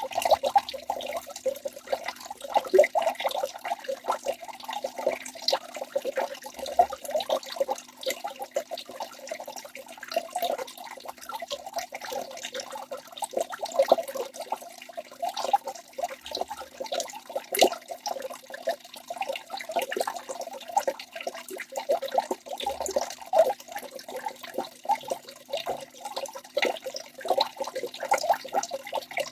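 Waterfall water rushing and splashing without a break, its loudness swelling and dipping rapidly, with scattered sharp splashes.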